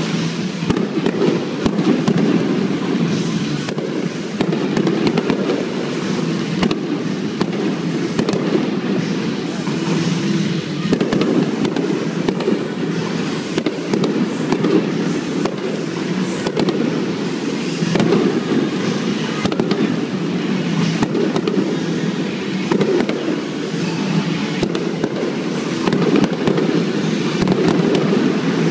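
Aerial fireworks shells bursting, many bangs and crackles in quick succession without a break.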